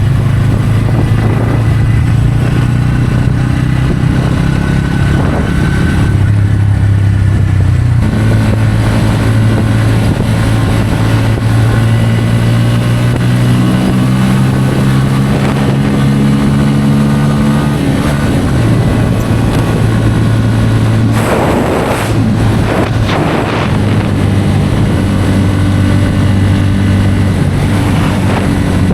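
Bajaj Pulsar N160's single-cylinder engine running at riding speed, its pitch shifting up and down several times as the throttle changes, over steady wind and road noise. About three-quarters of the way through come two brief rushes of louder noise.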